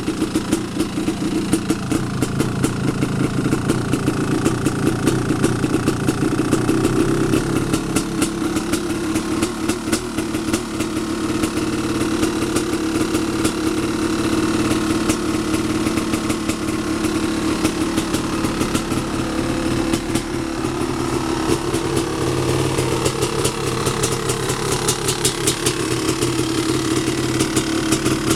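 1989 Honda CR500's 491 cc two-stroke single-cylinder engine idling, its note wavering a little now and then. It is running on its original 23-year-old piston after sitting unstarted for over a year.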